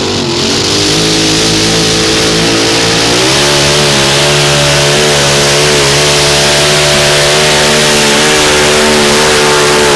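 Modified mini pulling tractor's 575-cubic-inch engine at full throttle during a pull. Its pitch climbs about three seconds in, then holds high and steady.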